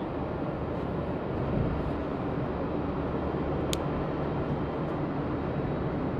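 Steady low rumble of an arriving jet airliner's engines, with one brief high click about two thirds of the way in.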